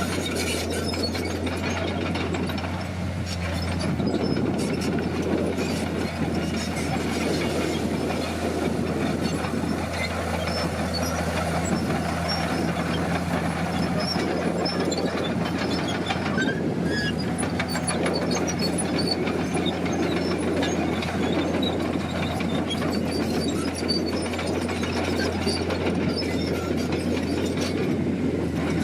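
Komatsu D50PX crawler bulldozer running steadily, its diesel engine humming under a continuous clatter of steel tracks.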